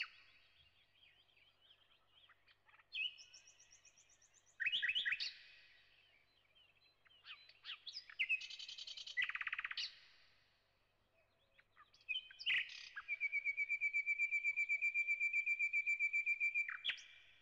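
A small songbird singing: bursts of fast trills and chirps with short pauses between, then one long, even, rapid trill from about 13 seconds in that ends near the close.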